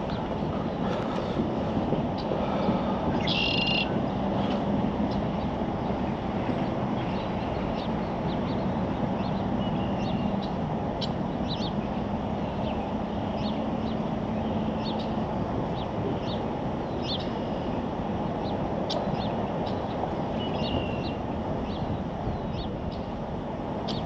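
Birds chirping in short, scattered calls over a steady low rushing background noise. A faint low hum runs through the first half.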